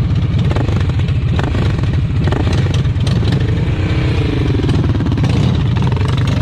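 Harley-Davidson Dyna's V-twin engine running, a steady low rumble whose note rises and falls briefly around the middle.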